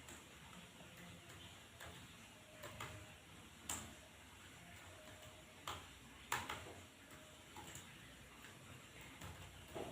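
Faint, scattered clicks of computer keyboard keys being pressed one at a time at uneven intervals, a few of them sharper, around four and six seconds in.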